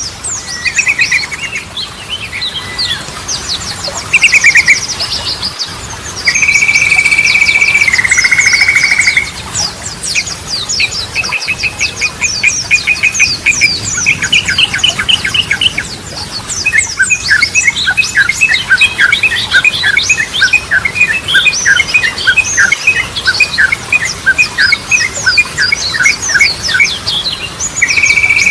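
Yellow-vented bulbul (trucukan) song: loud chattering phrases and fast trills, with a held whistled note that steps down in pitch, twice. Dense high chirps from other birds run underneath.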